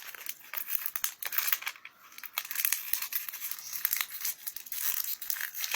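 Plastic candy packaging crinkling and tearing as it is worked open by hand: a dense, irregular run of crackles.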